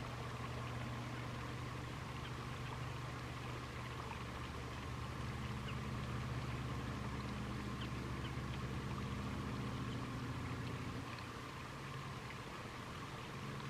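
Steady low hum of a distant engine, its pitch shifting slightly a few times.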